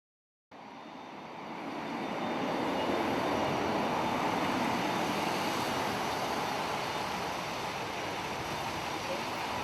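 Steady vehicle engine and rushing air noise, fading in over the first couple of seconds and then holding level.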